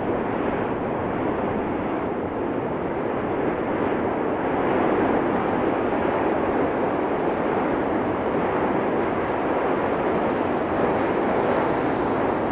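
Steady, unbroken roar of the Cumbre Vieja fissure eruption, a jet-like rushing noise from the erupting vent.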